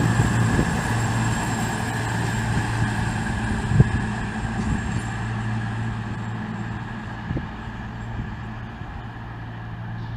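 A train's low, steady engine hum that slowly fades, with one sharp clunk about four seconds in.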